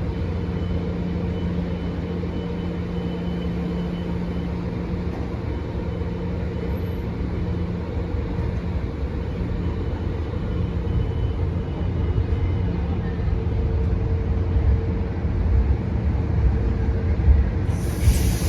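Metro-North commuter train at the station, a steady low rumble with a held hum that grows louder over the last several seconds. A sudden loud hiss starts near the end.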